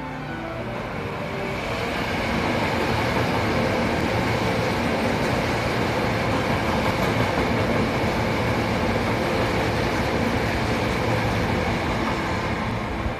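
A Hankyu 1000 series electric train runs through a station close by. Its rumble of wheels on rail builds over the first couple of seconds, holds steady as the cars go past, and eases off near the end.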